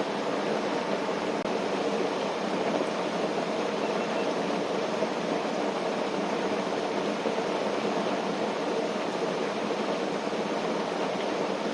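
Steady rain falling on a tent, a dense, even rush with no single drops or knocks standing out.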